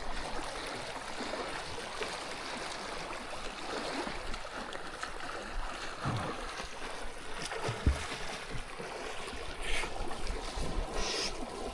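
Steady rush of flowing river water, with a couple of low thumps about halfway through.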